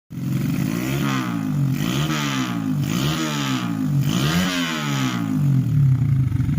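Kawasaki Ninja 150 two-stroke single-cylinder engine revved up and down about four times, then held steadier near the end. The owner complains that this engine makes a strange noise and feels heavy and lacks power.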